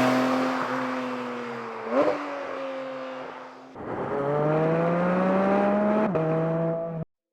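Porsche 718 Cayman GT4 RS's naturally aspirated flat-six engine: a loud peak then a falling note, a short sharp rev blip about two seconds in, then revs climbing steadily in a second take, with a quick gear change just after six seconds before the sound cuts off abruptly.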